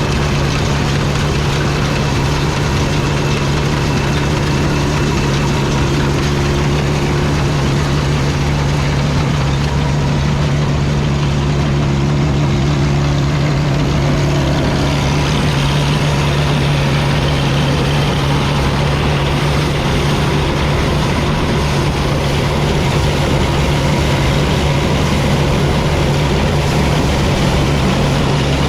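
1955 Field Marshall Series 3 single-cylinder two-stroke diesel tractor engine running steadily. Its sound changes about halfway through, with more hiss in the upper range.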